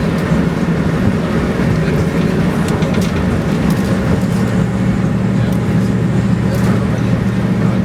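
Passenger train running at speed: a steady rumble of wheels on rail with a strong low hum and a few faint ticks now and then.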